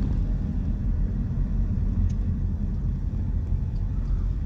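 Steady low rumble of a car driving on the road, engine and tyre noise heard from inside the moving car, with a faint click about two seconds in.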